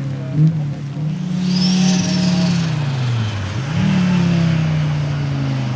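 A rally car's engine running hard. Its note holds, then sinks for about a second, snaps back up about two-thirds of the way through and slowly falls again, with a faint high whistle near the middle.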